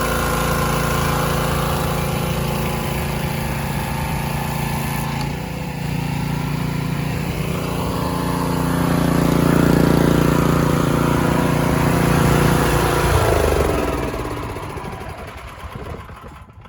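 The small engine of an IWATA engine-powered high-pressure washer running steadily; its sound changes abruptly about five seconds in. Around thirteen seconds in its pitch falls as the engine slows and dies away, fading out near the end.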